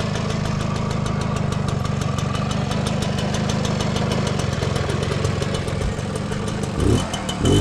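Puch Austro Daimler moped's 50cc two-stroke engine idling steadily, freshly brought back to running after sitting unused for 39 years. There are two brief louder swells near the end.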